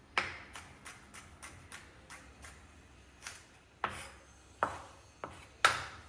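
Irregular sharp knocks and clinks of kitchen utensils, about a dozen, each with a short ringing tail; the loudest come near the start and in the last two seconds.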